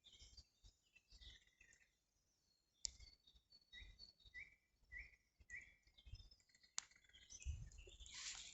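Faint bird calls: a run of four short, alike chirps about half a second apart, with a couple of sharp clicks and a rising rustle near the end.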